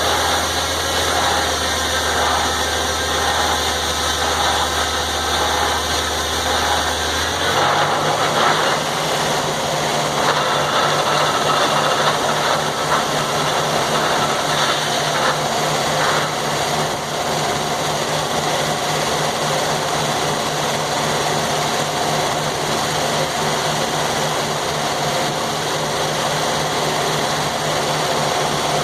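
Sawmill's engine running steadily, then speeding up about seven seconds in and holding at the higher speed, with mechanical noise from the mill over it.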